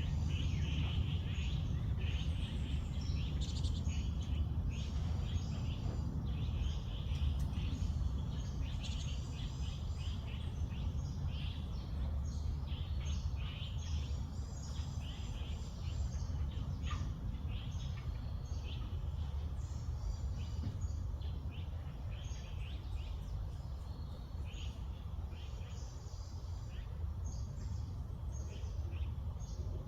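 Many small birds chirping and calling in a dense, overlapping chorus of short high notes, over a steady low rumble.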